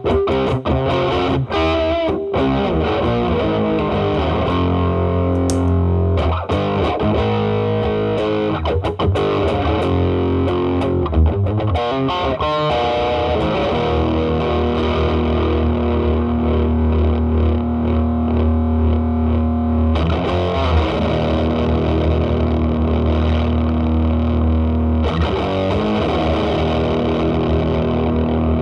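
Gibson SG's humbucker through an MXR Distortion+ stacked with a second gain boost into a Marshall Valvestate amp's drive channel: heavily distorted electric guitar. Quick picked notes for the first dozen seconds give way to long chords left to ring out.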